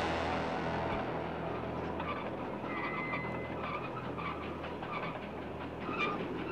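Moving train running steadily: a constant rumble with a light clatter of wheels on the rails.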